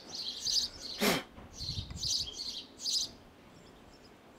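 Small birds chirping in repeated short bursts, with one sharp click about a second in and a few soft low knocks just after.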